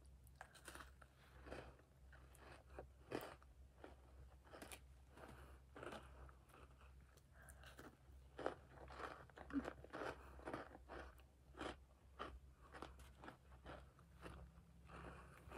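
Faint, irregular crunching and chewing of a baked cookie dipped in frosting, a few small crunches a second.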